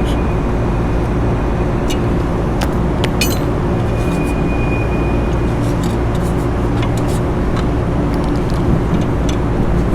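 A steady mechanical drone with a low hum runs throughout. Scattered sharp clicks and taps, like hand tools working on sheet-metal fan housing, come through it, with a cluster around two to three seconds in.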